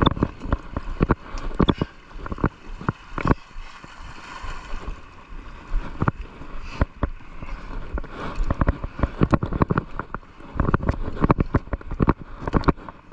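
Seawater gurgling and sloshing, with many irregular knocks and pops that thin out for a few seconds in the middle.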